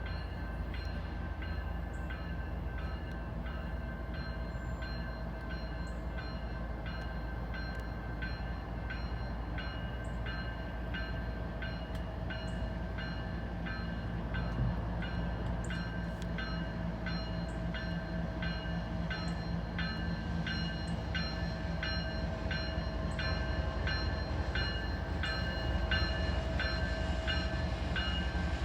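Freight train with its diesel locomotive rumbling, while a bell dings at an even pace, a little under twice a second. The rumble grows slightly louder toward the end.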